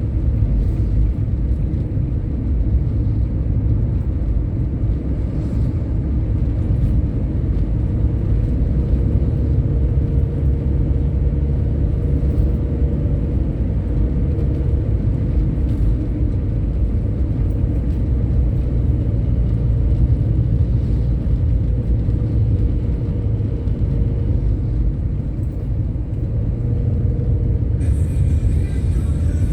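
Steady low rumble of a moving bus, engine and road noise running at an even pace. A higher hiss joins near the end.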